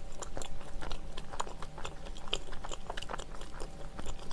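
A person chewing a mouthful of soft cheese-filled bread close to the microphone, with many small, irregular wet mouth clicks.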